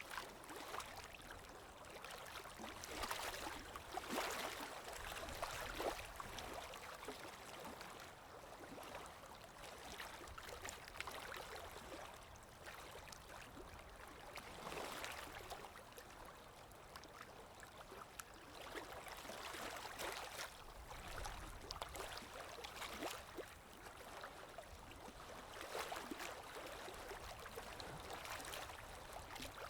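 Underwater water ambience: a steady rushing with streaks of bubbling, swelling and easing irregularly every few seconds.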